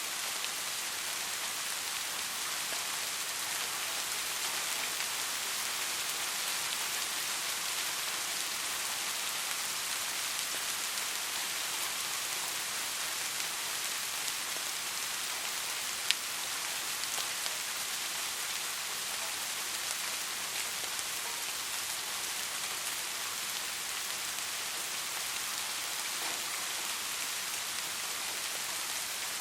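Soft rain falling steadily, an even hiss of many small drops. A single sharp tick stands out about halfway through.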